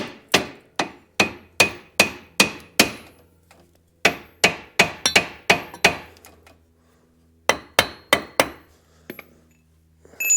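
Hammer blows on metal, each with a short ringing tone: an even run of about two and a half strikes a second, a short pause, a second run, then a few last, scattered blows.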